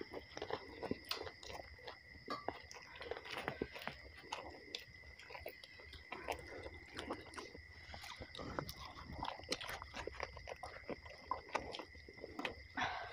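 Close-up chewing of roti and mashed potato: irregular wet mouth clicks and smacks. A faint steady high tone runs behind.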